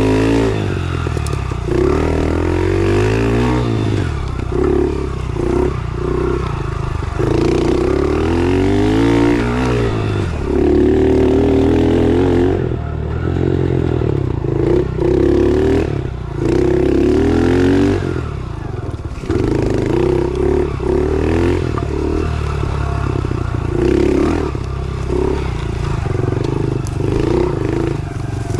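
110cc pit bike's four-stroke single-cylinder engine being ridden, revving up and dropping back again and again as the throttle is opened and closed, its pitch rising and falling with each burst.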